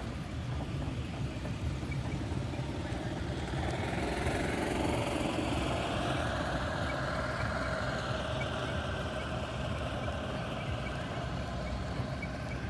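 An engine running steadily at low speed, swelling about four seconds in and easing off again after a few seconds.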